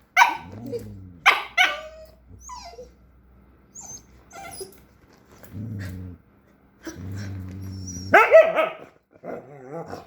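Jack Russell terrier puppy barking and growling: a few sharp yaps at the start, two long low growls in the middle, then a louder, longer bark and a wavering growl near the end.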